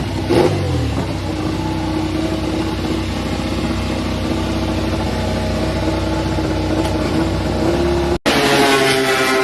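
Racing motorcycle engine blipped once, then held at a steady rev for several seconds. After an abrupt break near the end, an engine note falls in pitch.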